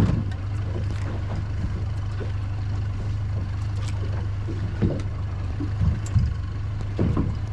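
A boat's engine idling with a steady low hum, with a few light knocks and bumps over it.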